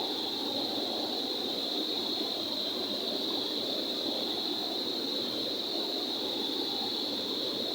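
Rushing water pouring steadily through a dam, an even unbroken roar, with a steady high-pitched whine running alongside it.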